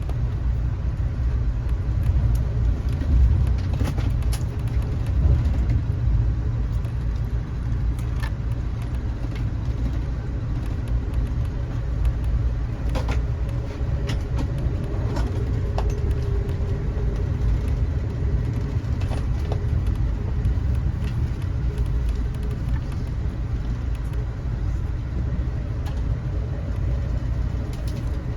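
Passenger train running, heard from inside the carriage: a steady low rumble with scattered clicks and rattles, and a faint held tone about halfway through.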